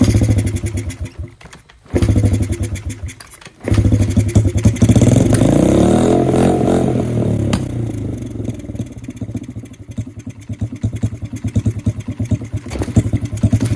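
Honda CRF50F's small 49cc four-stroke single-cylinder engine catching, dying twice within the first few seconds, then catching and running. It is revved up and back down, then settles into a rough, uneven idle, which the owner puts down to bad old fuel.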